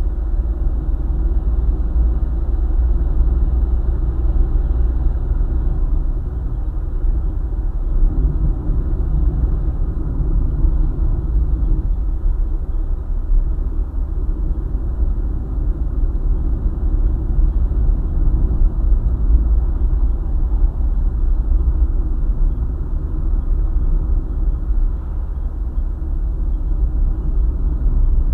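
Car driving steadily at road speed, giving a continuous low rumble of tyres and engine with no change in pace.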